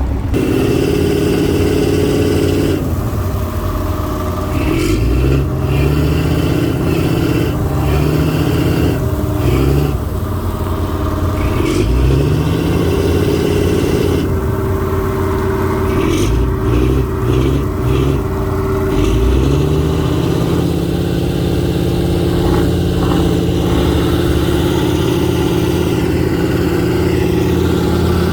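Boat engine running loud and steady, its pitch rising several times as the throttle is opened: a tug working under power to push fishing boats in against a pier.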